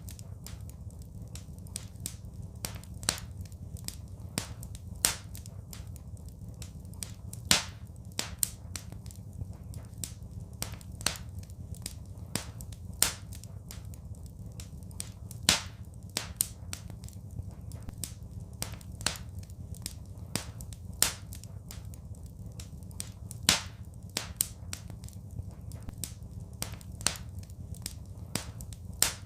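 Wood fire crackling in a fireplace: irregular sharp snaps and pops, several of them louder, over a steady low rumble of the burning.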